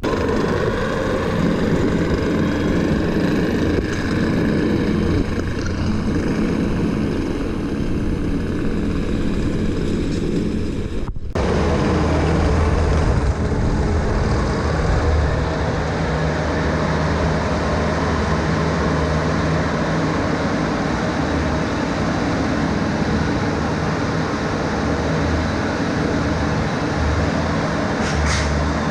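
A vehicle engine running steadily while driving, with a low hum; a short break about eleven seconds in, after which it carries on with a deeper rumble.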